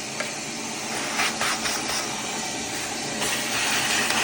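Vacuum cleaner running steadily, with brief louder hissing rushes about a second in and again after three seconds as it pulls in debris.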